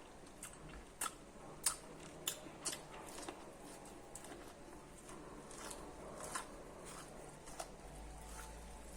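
Close-miked biting and chewing of corn: sharp crunchy bites into the kernels, four in quick succession starting about a second in and a few softer ones later, with quieter chewing in between.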